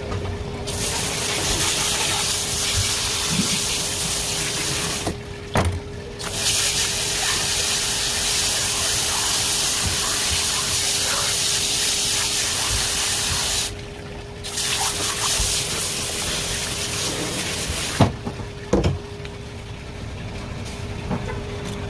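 Water running hard from a tap. The flow stops briefly about 5 and 14 seconds in, then is shut off about 18 seconds in. A few sharp knocks are heard, and a steady low hum runs underneath.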